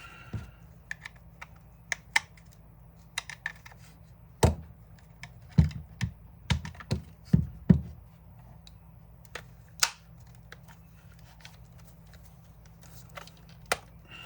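Scattered clicks and knocks of a cordless drill's plastic housing and parts being handled and pressed together, with a run of heavier knocks around the middle.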